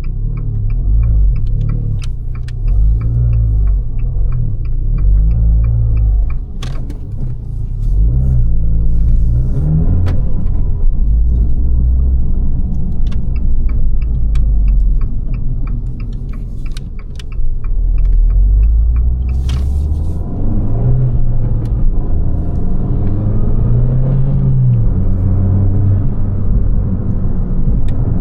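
Abarth 595 Competizione's turbocharged 1.4 T-Jet four-cylinder running under way through its Record Monza exhaust, with a deep rumble. The engine note rises and falls several times as the car accelerates and shifts, with a couple of short drops in level and scattered sharp clicks.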